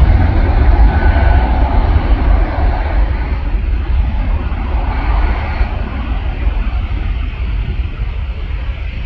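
Jet airliner's engines rumbling as the aircraft passes, the sound gradually fading as it moves away.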